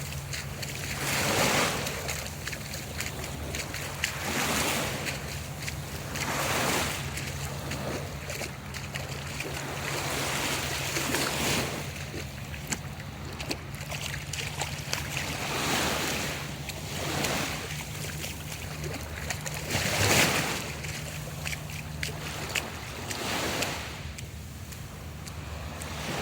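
Bare feet splashing and slapping through shallow seawater at the shoreline, with small waves washing in and out every few seconds.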